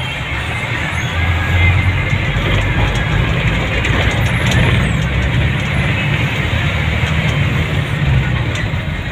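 Vehicle travelling along a road: steady engine and road noise with a deep, fluctuating low rumble.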